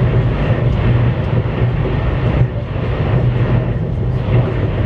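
Cabin noise of a CRH1A-A electric multiple unit running: a steady low rumble and hum.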